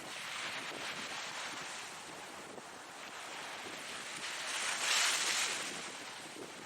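Ocean waves washing in as a steady hiss, with one wave breaking loudest about five seconds in.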